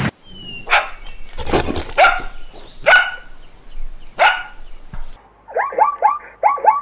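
Animal calls: four sharp barks about a second apart. After a short break, quick runs of yelping calls follow, each dropping in pitch.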